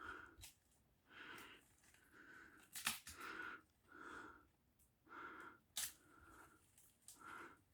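Faint, rhythmic breathing, about one breath a second, with two sharp clicks about three and six seconds in.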